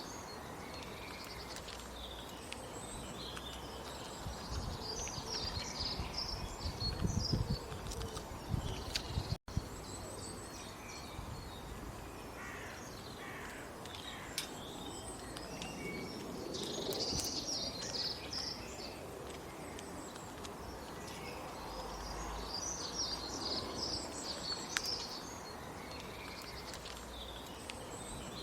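Small birds chirping in repeated bursts of short high notes over a steady outdoor background noise, with some low rumbling about a quarter of the way in and a momentary dropout about a third of the way in.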